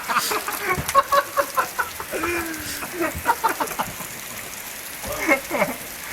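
Scattered short shouts, whoops and laughter from a group of young men, with rain hissing steadily.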